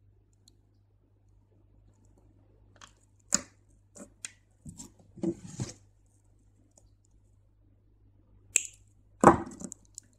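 Acrylic crystal beads and beading line handled at close range: scattered small clicks and taps as beads knock together and the line is drawn through them, with a short rustle about five seconds in and a sharper knock near the end.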